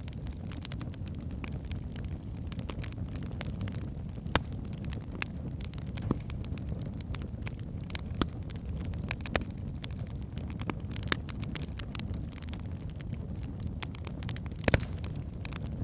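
Wood fire burning in a fireplace: a steady low rumble of flames with irregular crackles and sharp pops from the logs, the loudest pop near the end.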